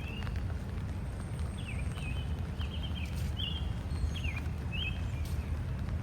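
Birds chirping in short, quick up- and down-sweeping notes, repeated again and again, over a steady low rumble.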